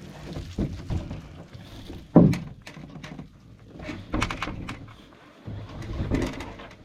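Irregular dull thunks and knocks: a few light ones at first, the loudest about two seconds in, then clusters about four and six seconds in.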